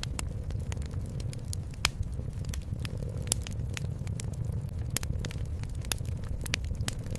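Wood fire in a fireplace crackling, with irregular sharp pops, the loudest about two and three seconds in, over a steady low rumble that is a cat purring.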